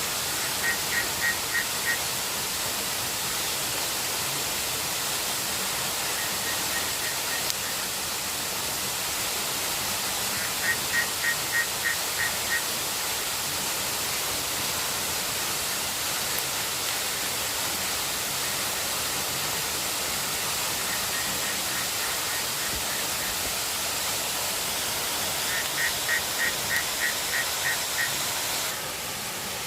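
Steady rushing noise of water, rain or a river, with an animal's short high chirps repeated about four times a second in several bursts of a couple of seconds each.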